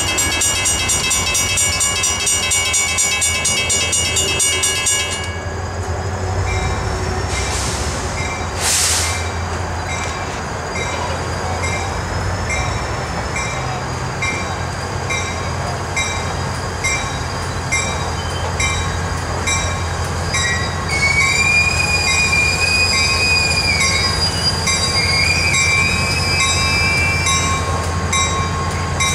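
Grade-crossing bell ringing steadily while an EMD SD40-2 diesel locomotive approaches slowly, its engine a low rumble underneath. From about two-thirds of the way through, the wheel flanges squeal in a wavering whine as it rounds the curve.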